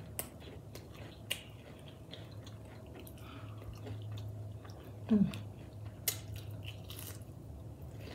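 Close-up chewing and crunching of a battered onion ring, with small crisp clicks scattered throughout. About five seconds in comes a short, loud 'mm' hum of enjoyment that falls in pitch.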